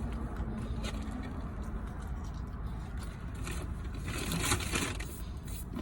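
A few brief rustling and scraping sounds from handling food, about a second in and again from about three and a half to five seconds in, over a steady low rumble.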